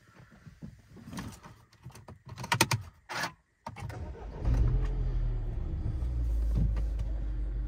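A few clicks and knocks, then the 2014 Mini Cooper S's 1.6-litre turbocharged four-cylinder engine is started. It catches a little over halfway through and settles into a steady idle.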